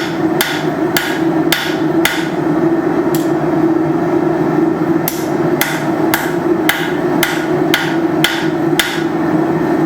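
Blacksmith's hammer striking hot steel bar stock on an anvil, about two blows a second, tapering the stock. The blows pause for a few seconds, then the steady rhythm resumes.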